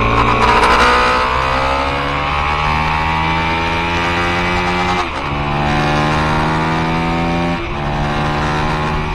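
Aprilia Tuono motorcycle engine pulling hard under acceleration, its pitch climbing steadily, with two quick upshifts about five seconds in and again near seven and a half seconds, each dropping the pitch before it climbs again.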